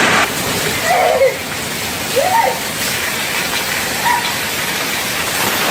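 Loud, steady rushing of water, with three faint short rising-and-falling calls or voices about one, two and four seconds in.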